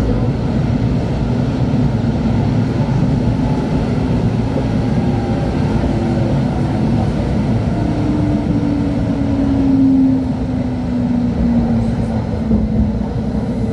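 LHB TW2000 Stadtbahn light-rail car running, with a steady low rolling rumble. From about halfway through, a motor whine slides slowly down in pitch as the car slows.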